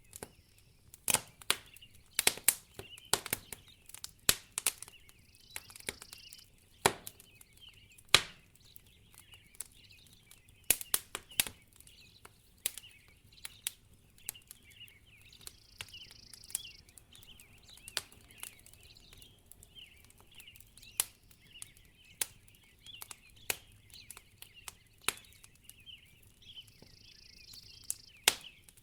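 Wood fire crackling in a fireplace, with irregular sharp pops and snaps, the loudest about eight seconds in. A faint high hiss comes and goes about every ten seconds.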